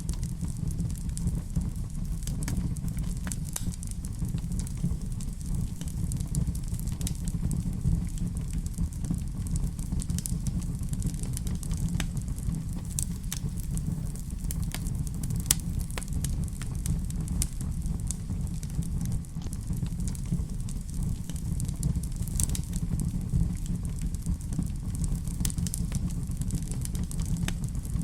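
Wood fire burning in a fireplace: frequent small crackles and pops over a steady low rumble of the flames.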